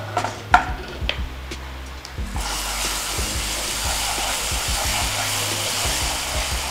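A wooden spatula taps a few times against a nonstick kadai of frying masala, then, about two seconds in, a steady sizzle starts as a watery paste is poured into the hot oil and stirred.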